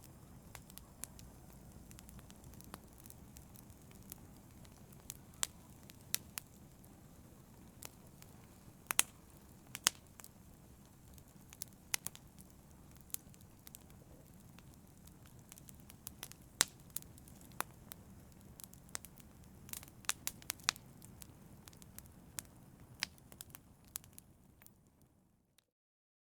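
Wood fire crackling in a fireplace: a steady low rumble of flames with irregular sharp pops and snaps. It fades out to silence near the end.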